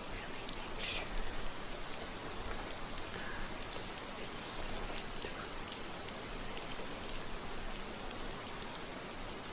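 Steady rain falling, an even hiss of rain ambience, with a few brief higher-pitched hissing touches about a second in and again about four and a half seconds in.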